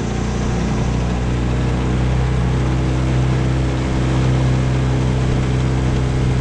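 Tohatsu 9.8 hp four-stroke outboard running under way, with water noise from the hull. The engine note shifts over the first couple of seconds, then holds steady.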